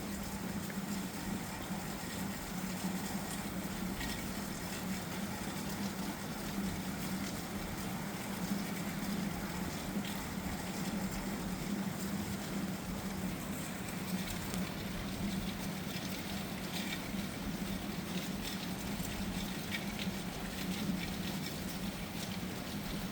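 Steady hiss of rain in the distance, with scattered light ticks of drops, over a low steady hum; it is taken to be very heavy rain moving in ahead of the thunderstorm.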